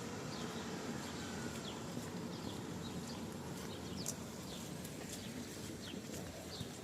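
Steady rain with a person's footsteps walking through it, and frequent short, high chirps of small birds.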